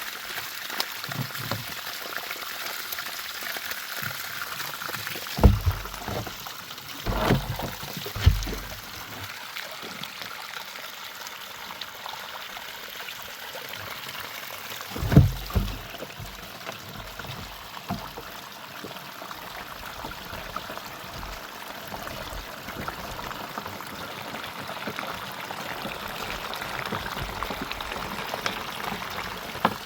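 Running water pouring and trickling steadily, with a few dull knocks now and then.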